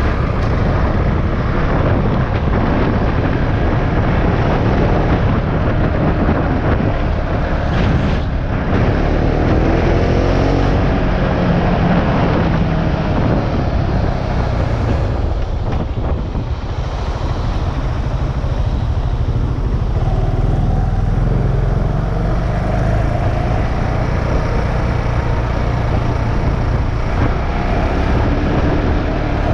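KTM Duke 690's single-cylinder engine running under way, mixed with steady wind rush, its pitch rising and falling a few times as the rider works the throttle and gears.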